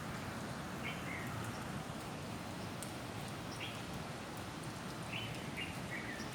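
Steady hiss of falling rain, with a handful of short bird calls scattered through it.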